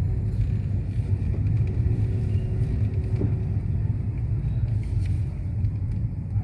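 Steady low rumble of a moving motor vehicle.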